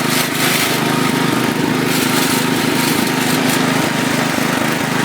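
1972 International Harvester Cub Cadet 128 garden tractor's single-cylinder engine running steadily as the tractor is driven over rough ground.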